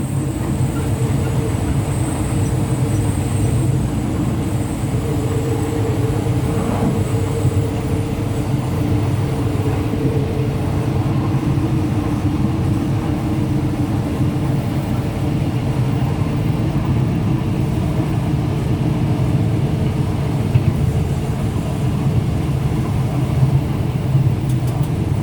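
Passenger train running: a steady rumble and drone that holds at the same level throughout.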